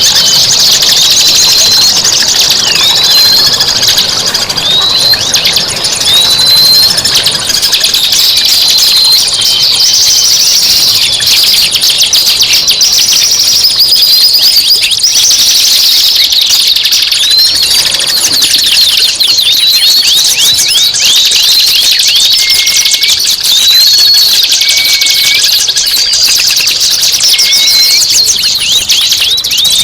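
Songbird masteran track: loud, dense songbird chatter of rapid chirps and trills, with a short hooked rising whistle repeated about once a second, giving way in the latter part to lower, shorter whistles.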